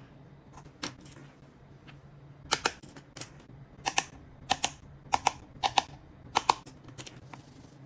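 A dozen or so sharp clicks, mostly in quick pairs about half a second apart: a small torque screwdriver on the screws of the iPhone 14 Pro's main camera protective metal cover.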